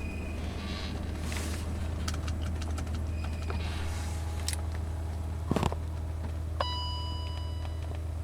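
BMW E39 530d straight-six diesel idling steadily just after a cold start at −21 °C. A few clicks and a knock are heard over it, and a steady high tone sounds for over a second near the end.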